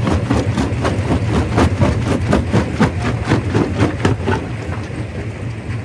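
Quarry primary rock crusher running with a steady low machine hum under rapid knocking and clattering of rock, about four or five knocks a second, which thin out about four seconds in.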